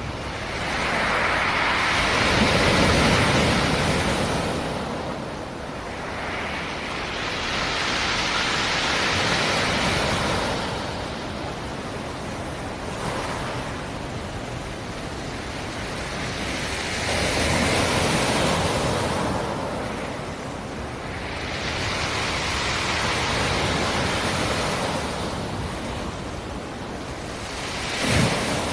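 Black Sea surf: waves washing in on the shore in four slow surges, each swelling and then fading away, with a brief sharper splash near the end.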